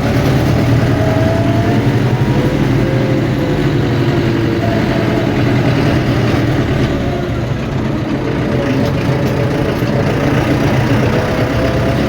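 Tractor engine with a freshly repaired cylinder head running steadily while the tractor is driven. Its pitch drifts slightly, and it eases off a little about seven seconds in.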